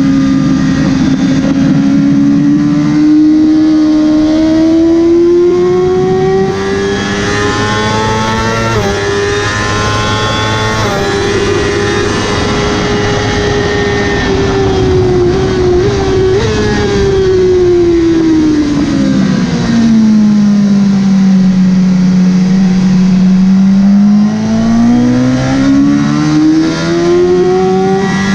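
Motorcycle engine running hard on a race track, its pitch climbing slowly with a few short breaks at gear changes. About two-thirds of the way in it falls steeply as the bike slows, then climbs again near the end, over a steady rush of wind.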